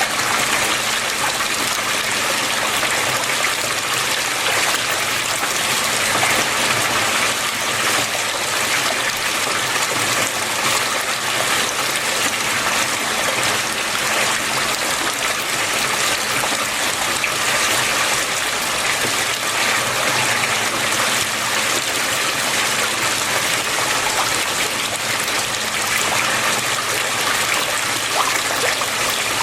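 Flowing water running steadily and evenly, a continuous rush and trickle with no breaks.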